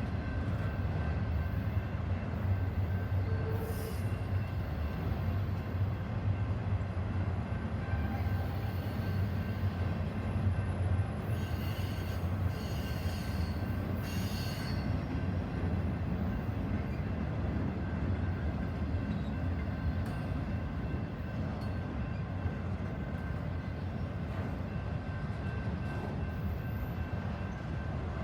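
Freight train rolling past with a steady low rumble of cars on the rails, and brief high wheel squeals near the middle.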